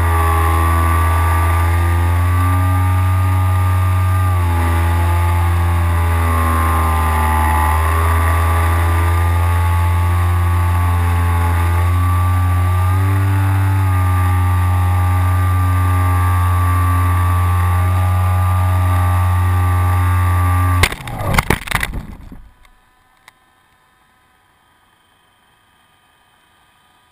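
RC glider's motor and propeller droning steadily, with small rises and falls in pitch as the throttle changes. About 21 seconds in, a quick series of loud crashing impacts as the plane hits a light pole, and the motor stops.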